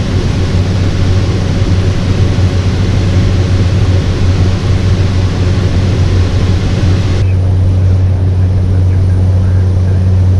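Cessna 208 Caravan's PT6A turboprop and propeller droning steadily in flight, heard from the cockpit as a loud, even low hum over a rushing hiss. About seven seconds in, the higher hiss drops away abruptly while the low hum carries on unchanged.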